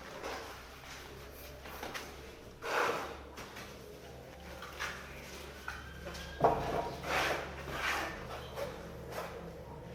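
Building work by hand: a few irregular scrapes and knocks, the sharpest about two-thirds of the way in, over a low steady hum.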